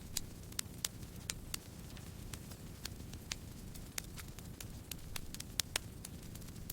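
Campfire crackling: irregular sharp pops and snaps, a dozen or more, over a steady low rumble of burning wood.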